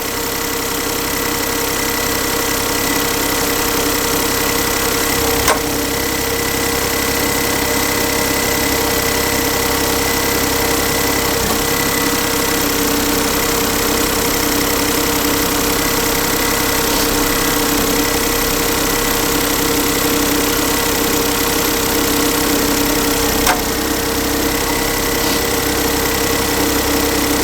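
2008 Smart ForTwo's 1-litre three-cylinder engine idling steadily, with two faint clicks.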